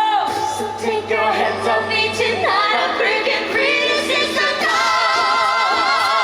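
A cappella vocal group singing in harmony, several voices together. Near the end they hold a chord with vibrato.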